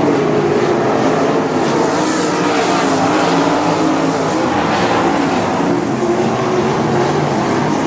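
Several 305 winged sprint cars running under power at racing speed on a dirt oval, their engines rising and falling in pitch as they come through the turns and pass.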